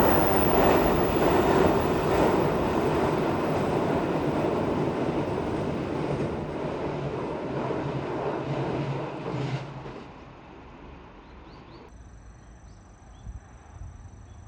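A train crossing a steel railway bridge: a loud, noisy rumble of wheels on the bridge that fades away over about ten seconds, leaving only faint outdoor ambience.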